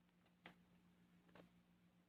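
Near silence, with two faint clicks.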